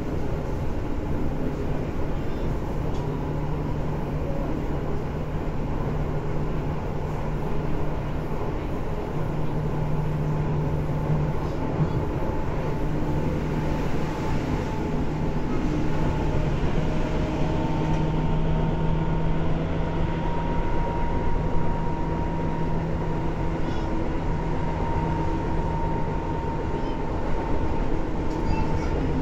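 Tobu 10030 series electric train running at speed, heard from inside the car: a steady rumble of wheels and running gear with a low steady hum and a fainter higher whine that rises slightly partway through.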